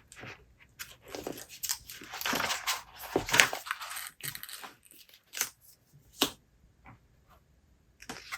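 Close rustling and crinkling handling noises for a few seconds, then several short sharp taps and clicks spaced apart.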